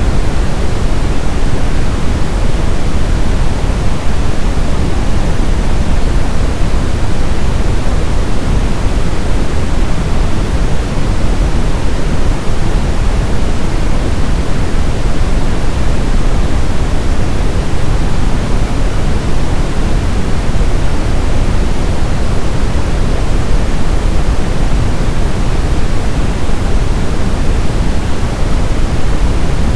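Steady, loud brown noise: an even hiss-free rumble with its weight in the deep bass, unchanging throughout.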